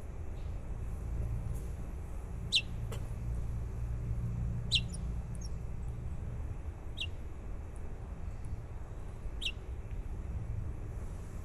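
Baby birds peeping: single short, high chirps about every two seconds, over a steady low rumble.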